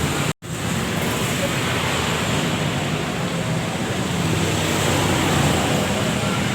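Steady background traffic noise, with a brief total dropout just after the start.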